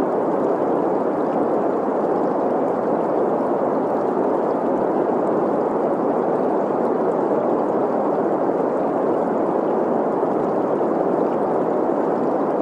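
Steady synthetic green noise, a hiss centred in the middle range, mixed with the running water of a stream. It stays even with no changes.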